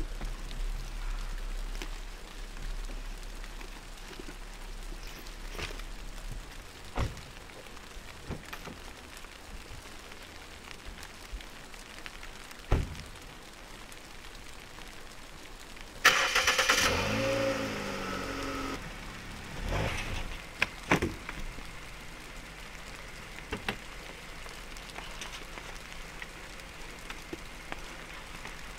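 Rain falling steadily on a parked car, with a few single knocks. About sixteen seconds in, the car's engine is cranked and catches, running unevenly for a couple of seconds before it settles.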